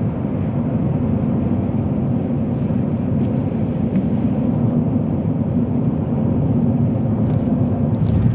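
Steady road and engine noise of a moving car, heard from inside the cabin: an even low rumble with a faint steady hum, unchanging throughout.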